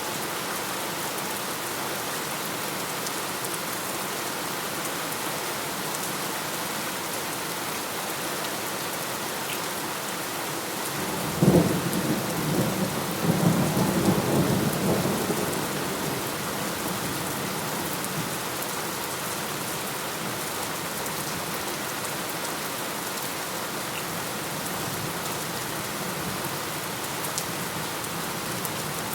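Steady heavy rain falling, with a sharp thunderclap about a third of the way in that rolls on as rumbling thunder for several seconds before fading back into the rain.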